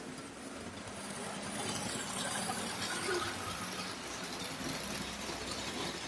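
Tyco HO-scale model diesel locomotive running on the layout's track, its motor and wheels rattling. It grows louder about a second and a half in, as it comes close, then eases a little.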